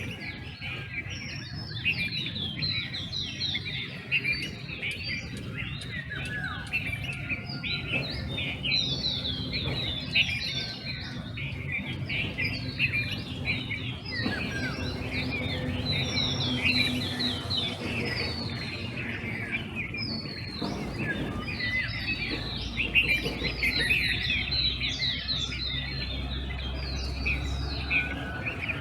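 Dawn chorus of many small birds chirping and trilling over one another without a break, over a low rumble that grows stronger in the second half.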